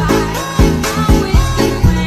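Indonesian DJ remix dance music in the full-bass "jedag-jedug" style: a heavy bass line with a kick drum hitting about twice a second under synth melody.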